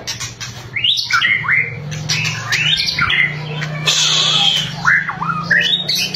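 White-rumped shama (murai batu) singing: a quick run of varied whistled notes sliding up and down, broken about four seconds in by a harsh, rasping burst, the bird's crackling 'kretekan' call.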